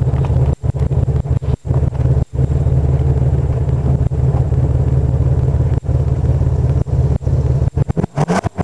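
1996 Pontiac Grand Prix's exhaust running at idle at the tailpipe, a steady low rumble broken by a few brief dropouts. Near the end the rumble weakens and turns choppy.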